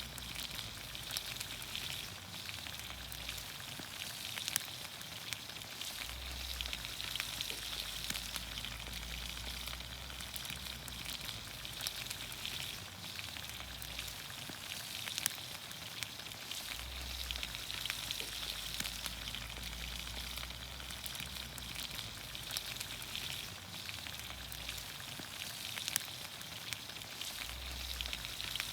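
Vegetables sizzling in olive oil over a campfire: a steady sizzle dotted with many small pops and crackles.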